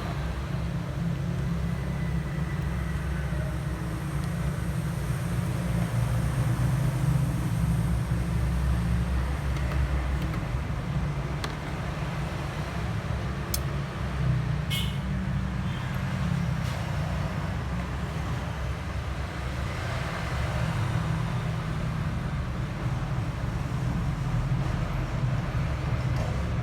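Steady low rumble of background road traffic, with two brief sharp clicks about halfway through.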